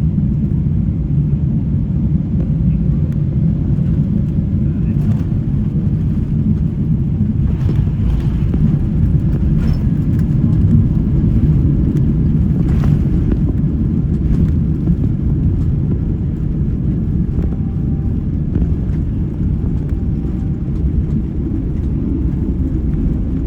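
Steady low rumble of a Boeing 777-300ER airliner heard from inside the cabin: engine and airflow noise during the landing phase, with a few faint rattles a few seconds in.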